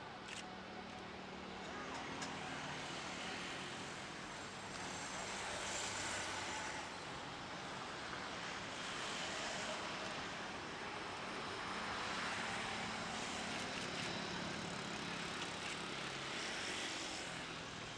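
Jet airliner engines heard at a distance: a continuous rushing noise with faint steady tones, swelling and easing a few times.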